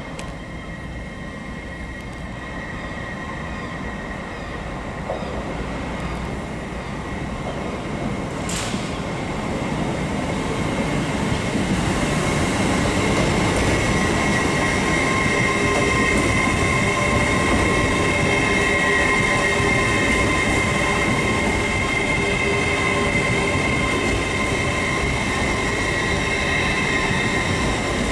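A passenger train moving through a station platform, growing louder over the first dozen seconds and then running steadily. Its rumble carries steady high-pitched whining tones.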